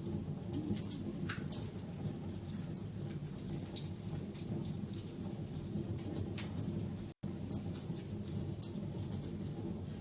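Wood fire burning with a steady low rumble and constant crackling and popping. The sound cuts out completely for an instant about seven seconds in.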